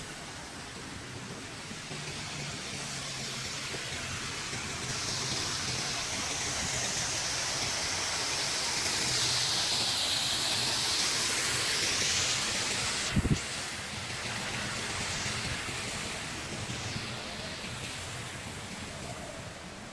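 Running, splashing water, a steady hiss that swells to its loudest near the middle and then fades away. There is one short sharp click about thirteen seconds in.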